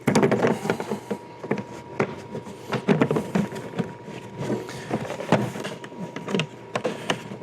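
Irregular clicks, knocks and clatter of hand tools and test equipment being handled, with a faint steady whine underneath.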